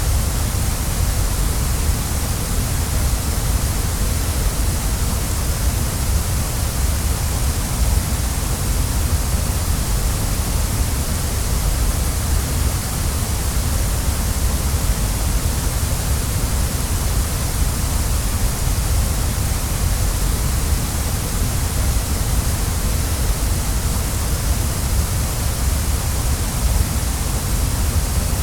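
Waterfall: a steady, unbroken rush of falling water, with a deep rumble under a bright hiss.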